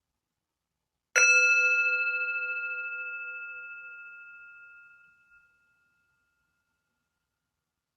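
Meditation singing bowl struck once, about a second in, ringing with a few clear overlapping tones that waver slightly and fade out over about four seconds.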